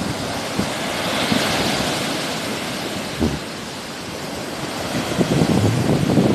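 Sea waves breaking and washing up the shore. A hiss of surf swells about a second in and fades, then low rumbling surges build again near the end, with some wind on the microphone.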